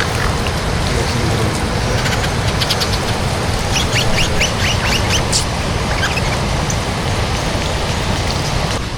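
Stream water rushing steadily over rocks. Between about two and a half and five and a half seconds in comes a quick run of short, high chirps.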